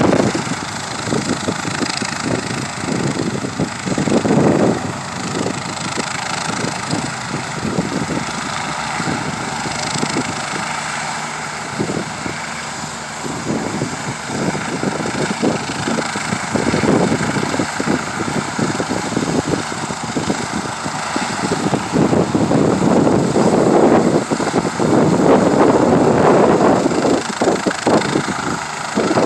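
Helicopter flying, a continuous rotor and engine roar with a rapid flutter, growing louder in the last third.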